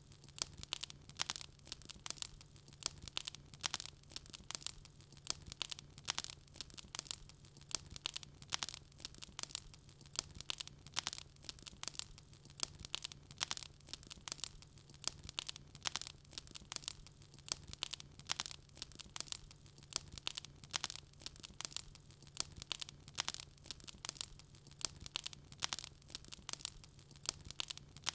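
Wood fire crackling: an unbroken stream of small sharp pops and snaps, several a second, over a faint low hum.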